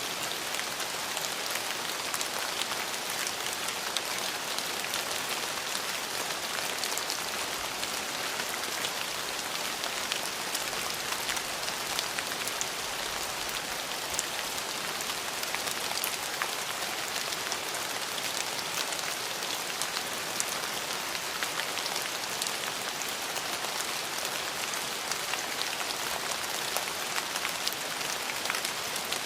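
Steady rain falling on a surface: an even hiss with many fine drop ticks, unbroken throughout.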